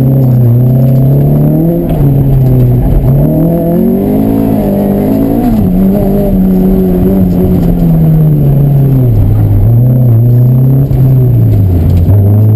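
Honda CRX's B16 1.6-litre DOHC VTEC four-cylinder engine, heard from inside the cabin, driven hard through an autocross course: the revs keep climbing and dropping as the driver accelerates and lifts between cones. The pitch peaks about five seconds in, then falls and climbs again twice.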